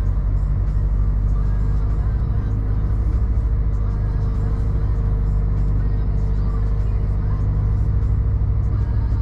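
Scania truck's diesel engine running steadily, a loud low drone with an even pulse that holds at one speed.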